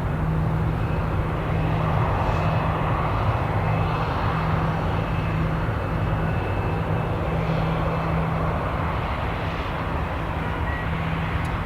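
Jet aircraft engines running steadily at the airport: a constant low hum under an even rushing noise.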